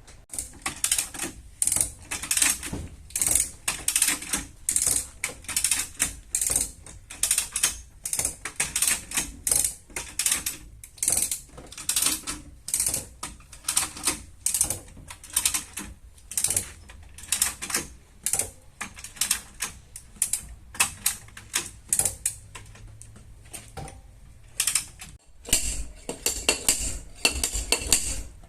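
Rapid, light hammer taps on car-body sheet metal, several a second in quick runs: tapping down a panel during paintless dent repair. Near the end there is a brief pause, followed by heavier knocks.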